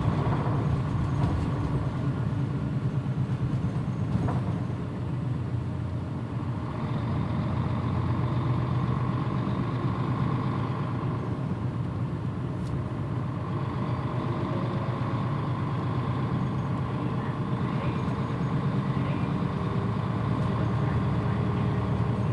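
Mitsubishi Fuso PJ-MP35JM route bus under way, its diesel engine and drivetrain running steadily. The sound dips briefly about five seconds in, then builds again as the bus pulls harder.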